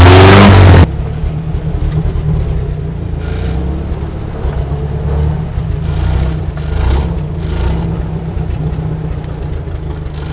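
UAZ 469 engine revving with rising pitch in low-range first gear. Under a second in it drops abruptly to a quieter, steady low running as the vehicle crawls on, with a few faint rustles over it.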